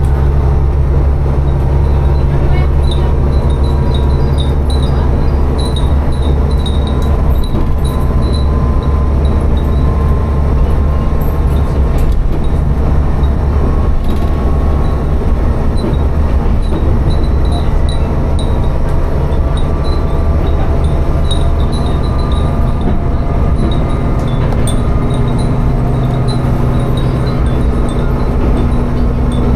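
Tsugaru Railway diesel railcar running between stations, heard from inside the car: a steady low engine drone and running noise on the rails. Over it, small high rings come and go, from the wind chimes hung in the car.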